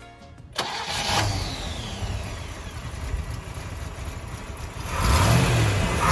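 1961 Chevrolet Corvette's 245 hp 283 V8 with dual four-barrel carburetors starting up about half a second in, then running at idle, and revved near the end.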